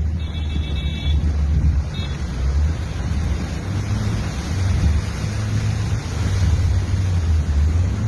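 Heavy rain falling, with wind buffeting the microphone in a steady low rumble. A brief high-pitched tone sounds in the first second.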